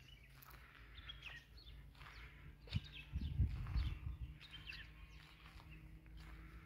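Faint outdoor ambience with scattered short small-bird chirps. There are a few low thumps a little under three seconds in, and a faint steady low hum after that.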